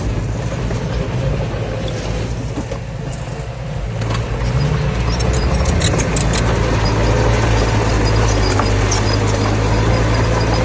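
Diesel engine of a heavy earthmoving machine running steadily, getting louder about four to five seconds in and then holding, with light clicking over it in the second half.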